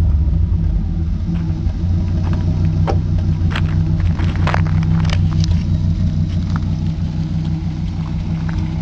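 Audi GT's 2.2-litre KV inline five-cylinder engine idling steadily with no muffler fitted, giving a loud, open exhaust rumble. A few sharp clicks sound about three to five seconds in.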